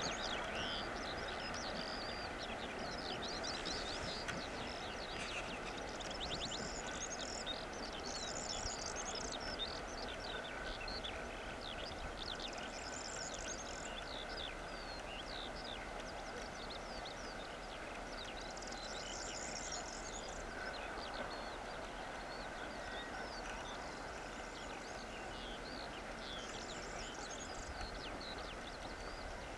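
Distant broad-gauge passenger train rolling away, a steady rumble that slowly fades, with small birds chirping in repeated short bursts over it.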